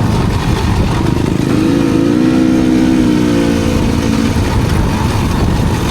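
Enduro dirt bike engine running under way; about one and a half seconds in it revs up, holds a steady higher pitch, and falls back about four seconds in.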